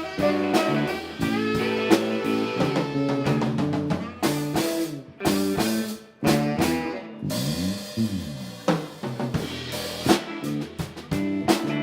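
Live band playing an instrumental groove: drum kit keeping a steady beat under guitar and bass lines, with notes bent up and down about two-thirds of the way through.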